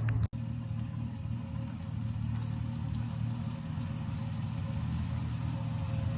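Triumph TR6's straight-six engine idling steadily through its old mild-steel back box, which has holes in it.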